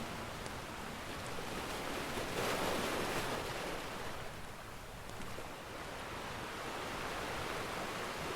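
Ocean surf: a wave swells and breaks about three seconds in, then draws back before the next one builds. A few faint crackles of a wood fire sound over it.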